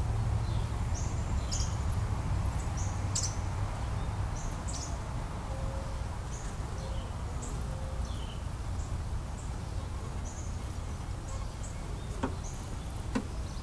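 Honeybees buzzing at an open top bar hive as a comb is inspected, a steady low hum throughout. Small birds chirp now and then, and there are a couple of sharp clicks near the end.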